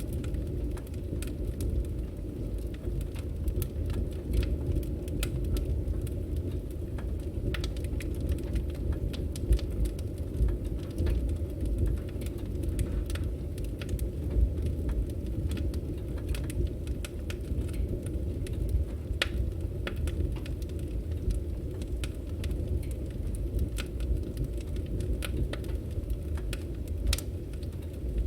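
Firewood burning: a steady low rumble of flames with frequent, irregular sharp crackles and pops of the burning wood.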